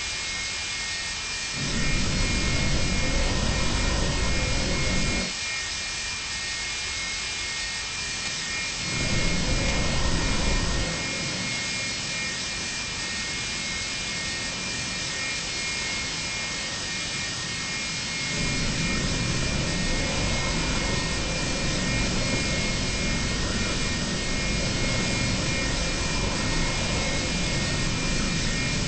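Jet airliner cabin noise from a Boeing 737-200's Pratt & Whitney JT8D engines: a steady hiss with a high whine. A low rumble comes in twice for a few seconds, then holds from about two-thirds of the way through as the overall level rises slightly.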